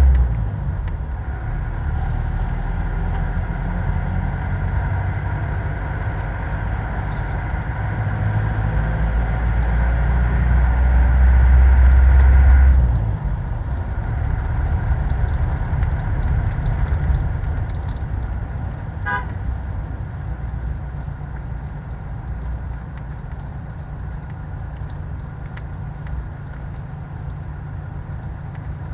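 Road vehicle running with a heavy low rumble that eases off suddenly about thirteen seconds in, with a horn tooting briefly about nineteen seconds in.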